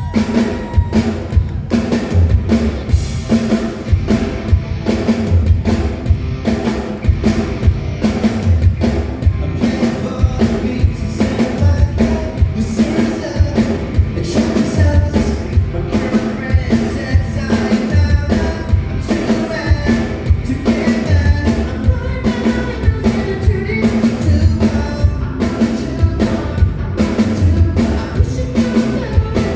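Loud pop-rock music with a singing voice over a drum kit and bass keeping a steady beat.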